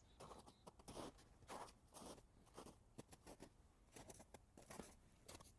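Faint footsteps crunching through snow, about two steps a second.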